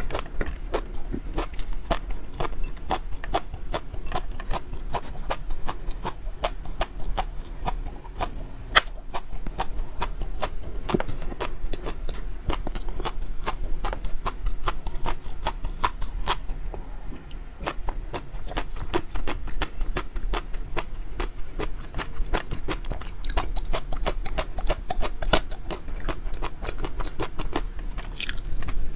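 Close-miked chewing: a dense, quick run of small wet mouth clicks and smacks, thinning out briefly near the middle, with a brighter, hissier sound near the end.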